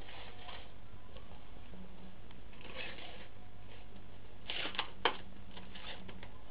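Steady low hum with soft, scattered rustling and light ticks, and one sharp click about five seconds in.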